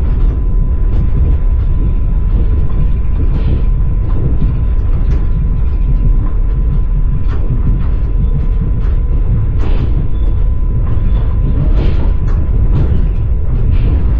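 Passenger train running, heard from inside the carriage: a steady low rumble with the wheels clacking over rail joints at irregular intervals. A thin steady whine sits under it.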